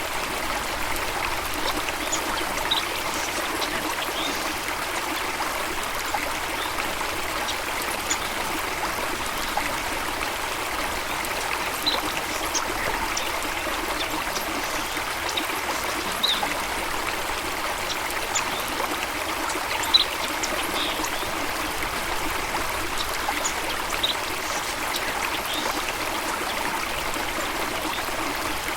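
Running water of a stream, a steady babbling trickle with scattered brief high plinks over it.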